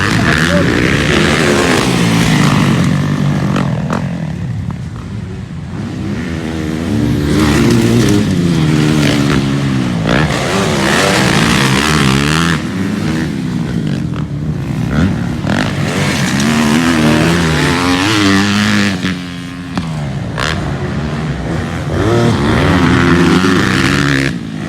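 Motocross dirt bikes racing, their engines revving up and down in pitch over and over as the riders accelerate and back off.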